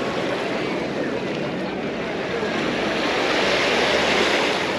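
Small sea waves washing up the beach, swelling to a louder rush of surf near the end.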